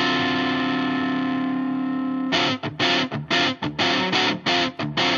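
Rock music opening on a distorted electric guitar holding one chord, which about two seconds in breaks into short, choppy stop-start chords.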